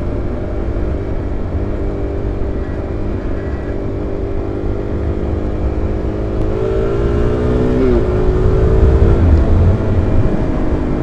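Single-cylinder supermoto motorcycle engine running under way, heard from inside the rider's helmet over a steady low wind rumble. The engine note climbs about two-thirds of the way through, dips sharply once at a gearshift, then holds steady.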